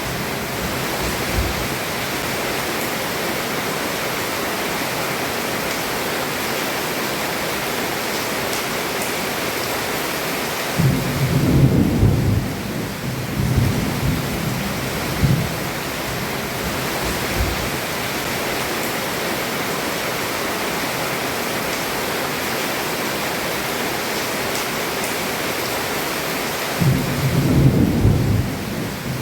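Heavy rain falling steadily on a roof, with rolls of thunder rumbling about eleven seconds in and again near the end.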